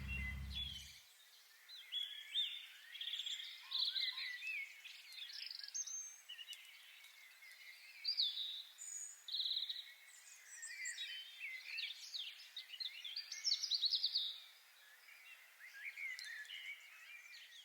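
Small birds chirping and singing, many short overlapping calls and trills. A low rumble cuts off suddenly about a second in.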